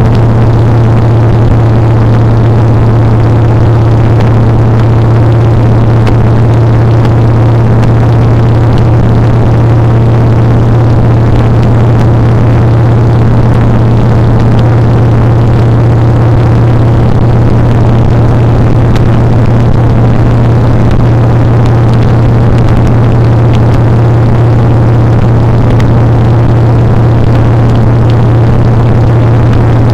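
Motorcycle engine running at a steady speed while riding, a loud, constant low drone with no change in pitch.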